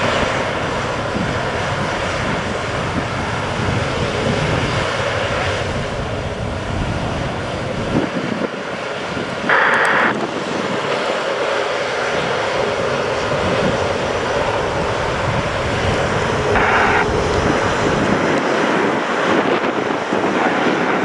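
Aircraft engines running steadily on the airfield, a loud continuous jet-like noise. Two short higher-pitched bursts cut in about ten and seventeen seconds in.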